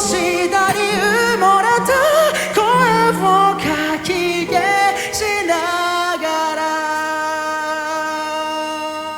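Japanese pop-rock band playing live, the male lead singer carrying a winding high vocal line over the band. About six seconds in he settles on one long held note while the low end of the band drops away, and the sound fades slightly near the end.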